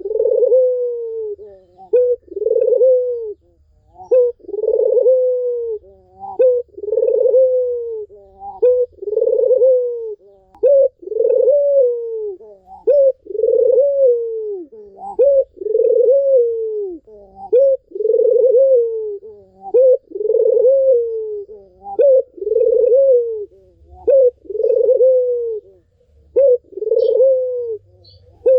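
A puter dove (Barbary or ringneck dove) cooing over and over without pause. Each coo is a short note running into a longer falling coo, about one every second and a bit.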